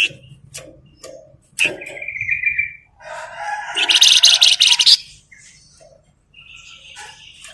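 Flamboyan songbird singing: sharp chirps and short trills, then a loud, fast rattling trill from about three to five seconds in.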